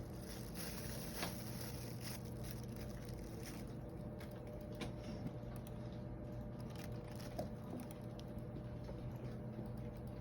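A steady low electrical-sounding hum with scattered faint clicks and light taps.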